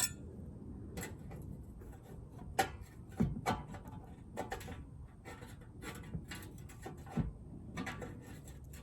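Scattered light clicks, knocks and rubbing of things being handled, with a couple of duller thumps about three and seven seconds in.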